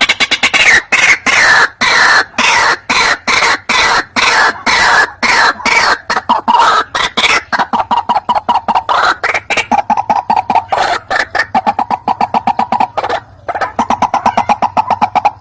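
White-breasted waterhen calling: a loud, fast run of harsh repeated croaking notes, about five a second, with a brief pause about thirteen seconds in.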